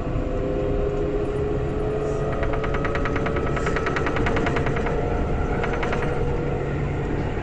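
Alstom Citadis 402 tram running on its line, its traction drive whining with tones that rise slowly as it gains speed over a steady rolling rumble. From a little over two seconds in until about six seconds, a rapid, even rattling pulse rides on top.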